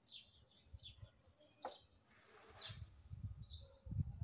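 Faint bird chirps: short, high, falling notes about once a second. Low rumbling bumps come in near the end.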